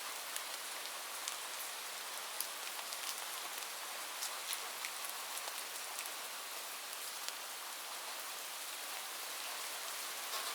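Heavy rain falling on a roof: a steady hiss with scattered sharp drop impacts.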